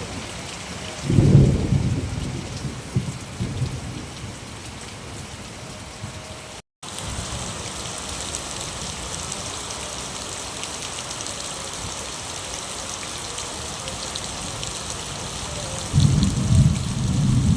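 Steady rain falling, with a low rumble of thunder about a second in and another building near the end. The sound cuts out for a split second a little before the middle.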